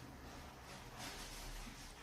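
Near silence: faint room tone with a low hiss and hum.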